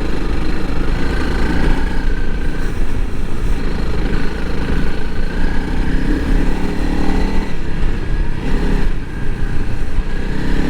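Honda CRF300L Rally's single-cylinder engine running under load while the bike is ridden through sand, its pitch rising and falling with the throttle over a steady low rumble.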